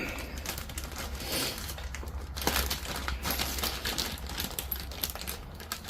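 Scattered small clicks, clinks and crinkling as the new carburetor kit and its parts are handled and unpacked, over a steady low hum.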